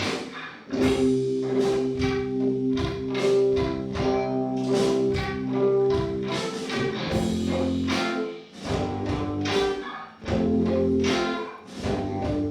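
Live indie rock band playing a song: electric guitars holding chords over drums, with short breaks in the playing a few times.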